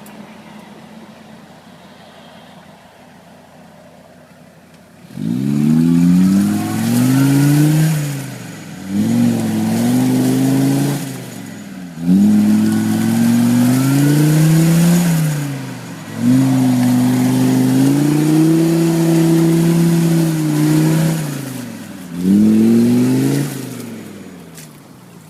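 Mercedes OM617 3.0 five-cylinder diesel in a UAZ off-roader, low and quiet for about five seconds, then revved hard in five long bursts, its pitch climbing, holding and dropping back with each one.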